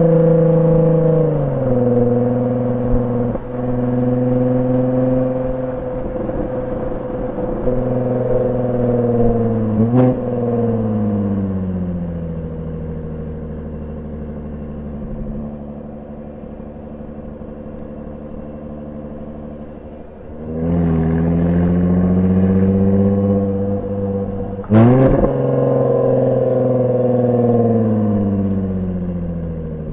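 Jaguar F-Type V6S's supercharged 3.0-litre V6 running through its stock exhaust in Dynamic mode while driving, revving up and dropping in pitch at each gear change. A sharp exhaust crack comes at the upshift about ten seconds in and again near the end, with some crackling on the overrun before the first one.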